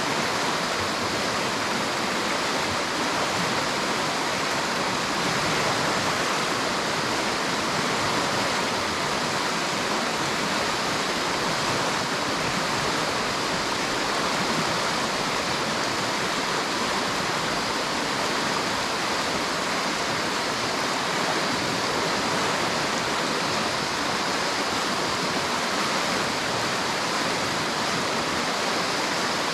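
Steady rushing of a river's flowing water, an even, unbroken roar with no birds or other events standing out.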